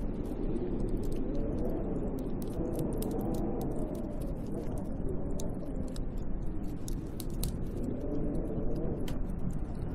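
Snowstorm wind blowing steadily, with a whistling howl that slowly rises and falls in pitch, and scattered faint ticks over it.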